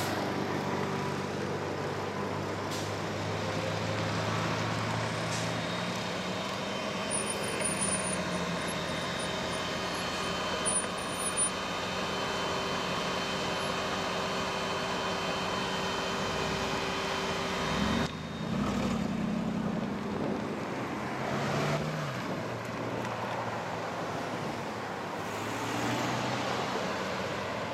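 Car engine running under road and traffic noise. The engine note holds steady for long stretches and shifts about eighteen seconds in.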